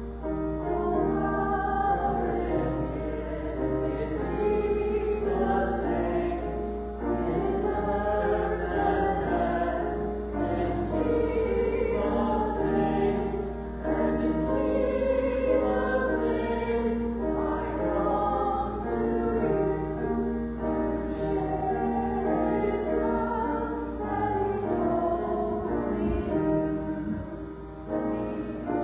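Voices singing together in a slow hymn, with long held notes, over a steady low hum.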